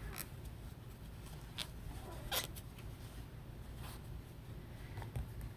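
Crochet hook and yarn being worked by hand: faint rustling with a few brief scratchy clicks as stitches are pulled through, over a low steady hum.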